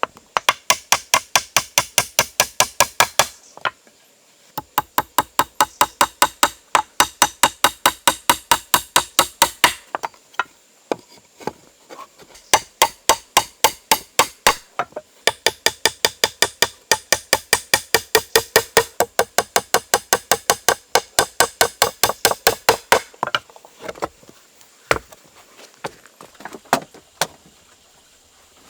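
Rapid, evenly spaced hammering strikes, about four a second, in several long runs broken by short pauses, giving way to a few scattered knocks near the end.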